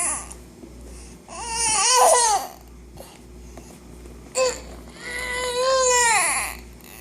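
A baby letting out two long, high-pitched cries or squeals, the first rising and falling about a second in, the second held and then falling off about halfway through.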